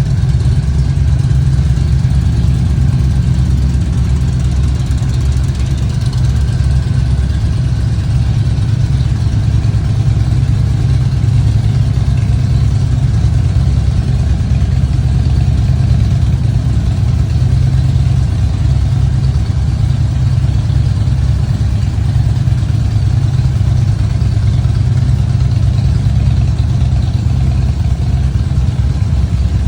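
Motorcycle engine idling steadily through its exhaust, a deep even rumble with no revving.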